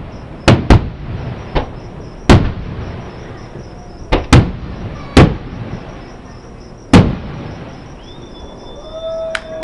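Fireworks shells bursting about a mile away: about eight sharp bangs at uneven spacing, some close pairs, each with a short rolling tail. Near the end a steady held tone starts up.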